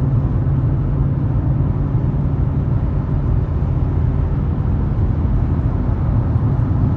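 Steady low rumble of road and engine noise inside a car's cabin while cruising in traffic, with no sudden changes.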